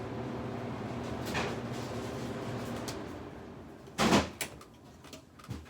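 Haier 5,200 BTU window air conditioner running with a steady hum that fades away about three seconds in. A single loud thump comes about four seconds in, followed by a few light clicks.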